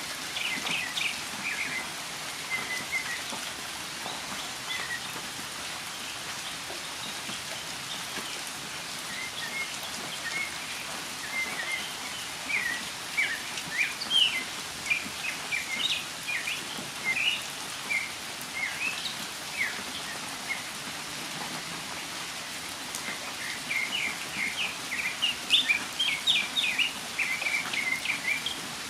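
Northern mockingbird singing in runs of short, quick notes with brief pauses between runs, over steady rain.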